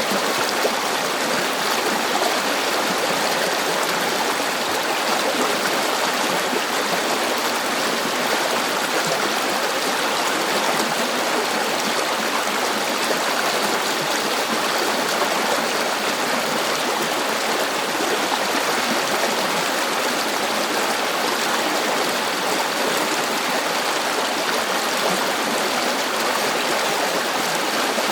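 A river flowing steadily, its water rushing and babbling without a break.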